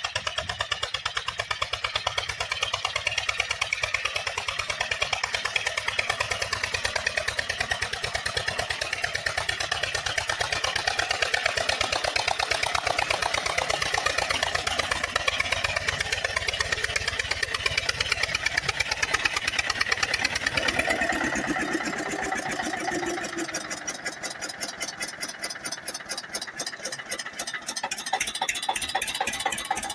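Eicher 242 tractor's single-cylinder diesel engine running with a fast, even exhaust beat. About 21 seconds in it eases off and changes tone for a few seconds, then picks up again near the end.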